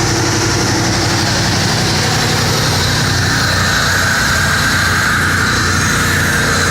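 Truck engine idling loudly and steadily. A high whine comes in about three seconds in and holds.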